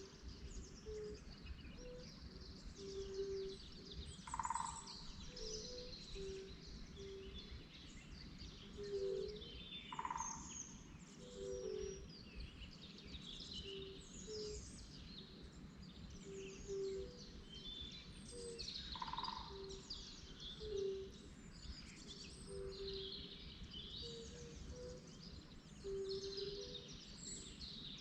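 Many birds chirping and singing, with a run of short, low repeated notes and, every few seconds, a single louder call, over a steady low background rumble.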